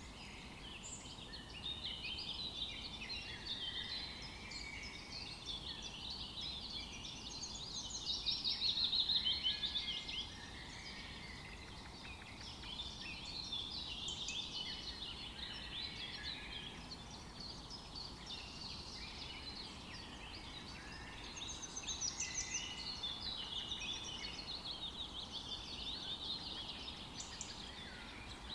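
Dense chorus of many songbirds chirping and trilling continuously, overlapping, louder for a couple of seconds about eight seconds in, over faint steady background noise.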